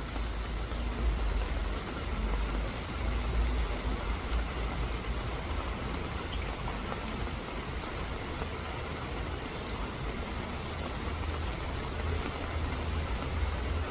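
Steady rain falling, an even hiss of drops, over a low rumble that swells and eases.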